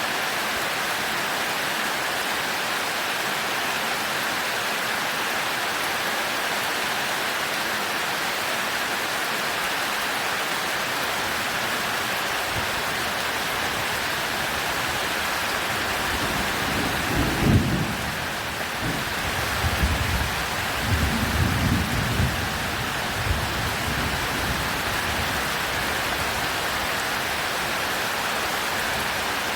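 Heavy rain falling steadily. A roll of thunder comes a little past the middle: a sharp peak, then rumbling on for several seconds before fading back into the rain.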